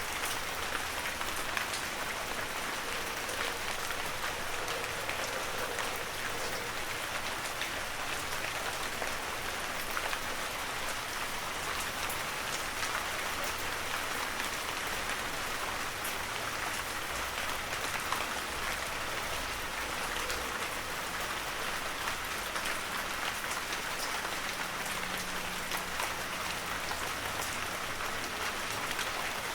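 Heavy rain falling steadily in a forest: a dense, even hiss of rainfall with many individual drops pattering on surfaces.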